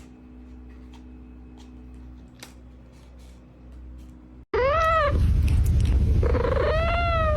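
A faint steady hum with a few soft clicks. About halfway in, a domestic cat starts meowing loudly, over a low rumble: first a short meow, then a longer drawn-out one that rises in pitch at the end.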